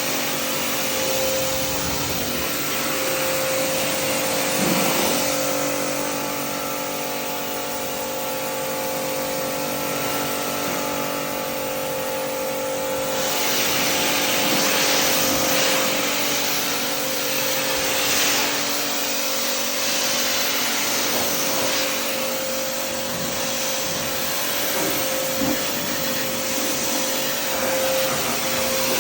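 Pressure washer running steadily: a constant motor whine under the hiss of the water jet from a stubby gun with the green nozzle, rinsing a car. The spray's hiss grows brighter about halfway through.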